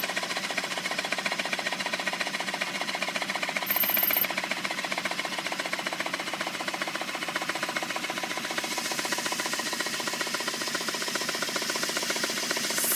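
A small model engine running steadily with a fast, even mechanical clatter.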